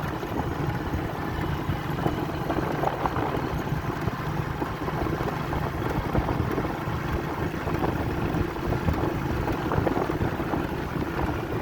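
Motorbike engine running steadily while riding an off-road dirt track, with wind buffeting the microphone.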